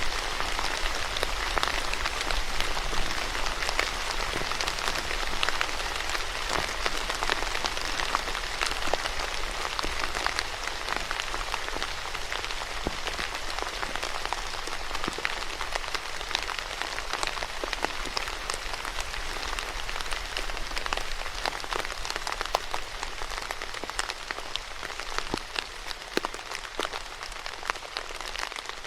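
Steady rain falling on a surface, a dense even patter with many distinct drop hits, easing slightly near the end.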